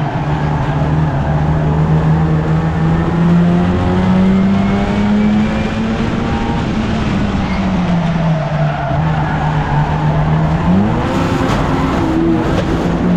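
1300cc stock car engine running at racing speed, its revs rising and falling as it goes round the track, with a quick climb in revs about eleven seconds in.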